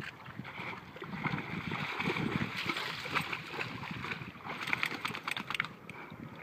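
Water sloshing and splashing as a dog swims and dives in a pond, with a quick run of sharper splashes about two-thirds of the way through.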